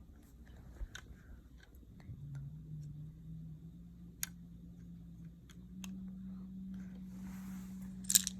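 Scattered clicks of plastic LEGO bricks being handled and pressed together, with a louder click near the end. A steady low hum comes in about two seconds in and steps up in pitch around the middle.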